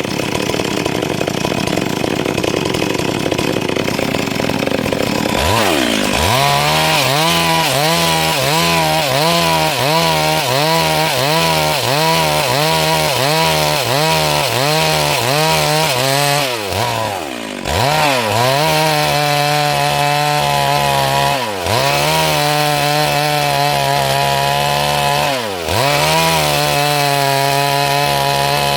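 Stihl MS 382 two-stroke chainsaw running at full throttle while sawing wood. For the first few seconds it is an even rough noise; after that the engine note wavers up and down about twice a second, then holds steadier with a brief dip in speed every few seconds.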